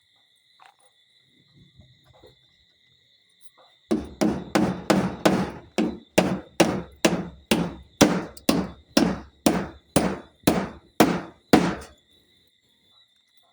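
A hammer driving nails: a steady run of about eighteen sharp blows, about two a second, starting about four seconds in and stopping near the end.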